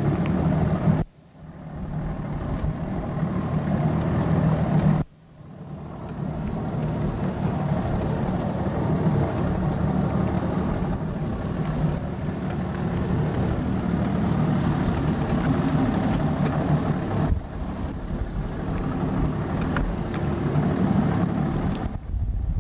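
A boat's motor runs steadily with a low hum, and the sound cuts out abruptly twice in the first few seconds.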